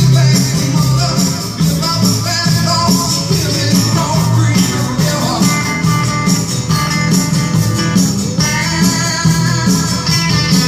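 Music with a steady bass line and a regular beat, played through a vintage Cygnus and Gradiente home stereo tuned to FM radio.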